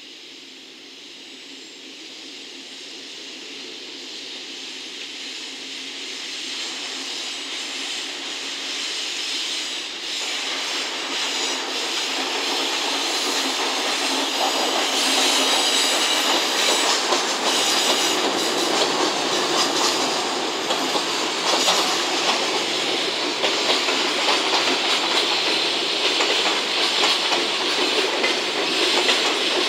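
A JR Freight EF64 electric locomotive and its Koki container wagons rolling past on a curve, growing louder over the first fifteen seconds as the train approaches, then a steady run of wheel noise with clickety-clack over the rail joints and the wheels squealing on the curve.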